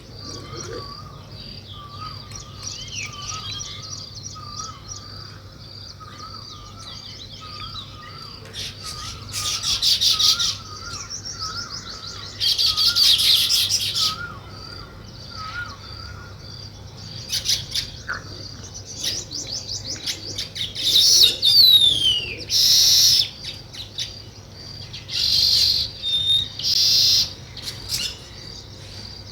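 Weaver birds chirping and chattering, with several loud buzzy bursts of song over a steady run of high chirps. Through the first half, another bird repeats a short low warbling note about once a second.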